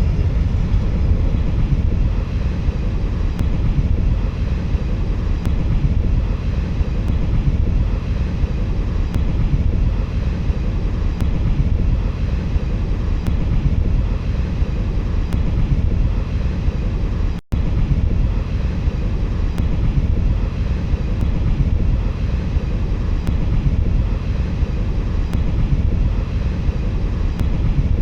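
Steady low rumble of a moving train, breaking off for a split second a little past the middle.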